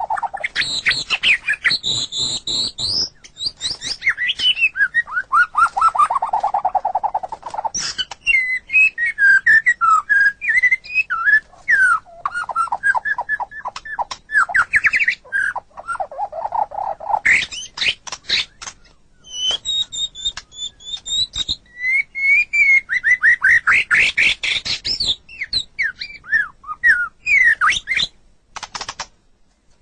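White-rumped shama singing a long, varied song of clear whistles, rapid trills and quick runs of repeated notes, phrase after phrase with only short pauses.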